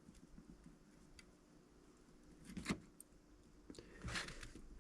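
Faint, scattered small clicks and taps from handling an eyeglass frame and small repair parts, with a short rustle near the end.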